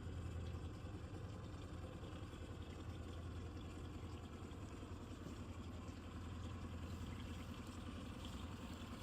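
Boat engine running with a steady low hum, heard on board.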